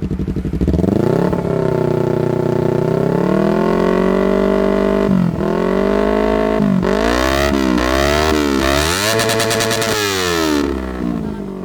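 Yamaha YZF-R25 parallel-twin engine revved through an aftermarket Forspeed GT exhaust. The revs climb about a second in and hold, drop briefly near the middle, then rise and fall in several quick throttle blips before settling back to idle near the end.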